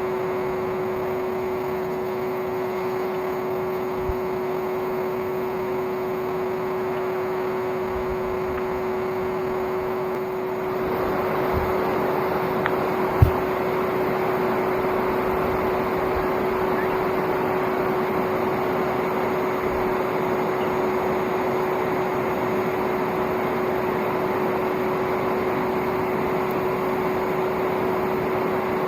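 Old vacuum cleaner motor used as the coal forge's air blower, running steadily with a constant hum under a rushing air noise. About ten seconds in the rushing gets louder, and a single sharp click follows a few seconds later.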